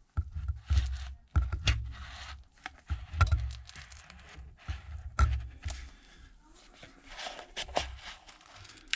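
Irregular scraping and crackling as a thin pry card is worked under the iPad screen, separating the adhesive, with dull handling knocks in between.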